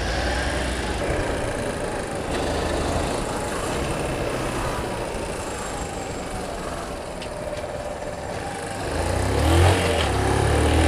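Motorcycle riding in city traffic: a steady engine hum mixed with traffic noise, and an engine growing louder from about nine seconds in.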